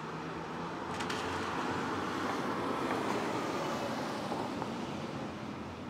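Rain falling over a city, with a rush of traffic noise on wet streets that swells to a peak midway and fades again.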